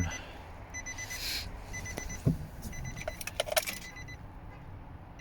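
2008 Nissan Titan's dashboard warning chime beeping steadily, a short high beep about every 0.8 s, as the key is in the ignition with the battery live. About three seconds in, keys click and jingle in the ignition.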